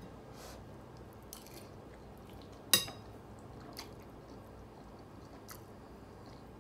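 A person chewing a mouthful of food, with a few faint soft clicks and one sharp click about three seconds in.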